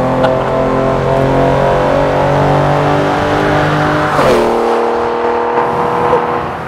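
1969 Porsche 911 S rally car's tuned air-cooled flat-six at high revs, angry-sounding and steady. About four seconds in the note falls quickly as the car sweeps past, then runs steady again at a lower pitch.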